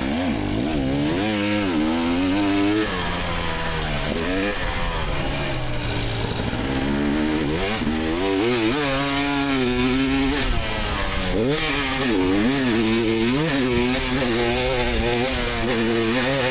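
2024 GasGas EX300 two-stroke dirt bike engine under hard riding, its pitch climbing and dropping over and over as the throttle is opened and rolled off and the gears change.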